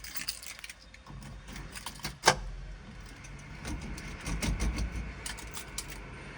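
Clicks and small knocks of someone handling the car before starting it, with one sharp click about two seconds in. A faint steady high whine comes in during the second half.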